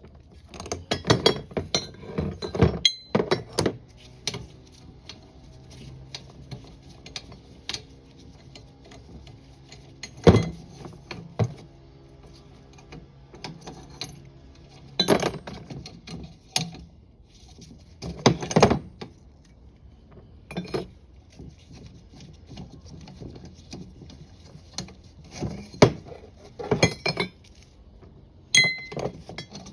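Stainless steel parts and clamps clinking and knocking together as the unit is taken apart, in scattered clusters of sharp metallic clicks, over a faint low hum.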